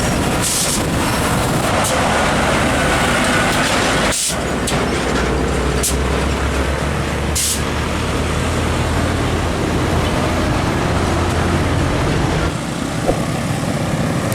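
Heavy trucks driving past close by: a low diesel engine drone over loud road and tyre noise, with a few brief sharp hisses.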